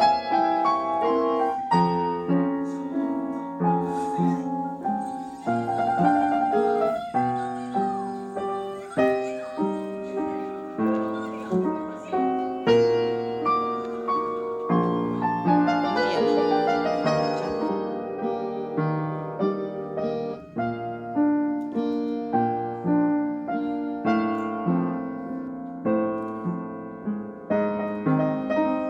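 Background piano music, a gentle melody of struck notes that each ring and fade.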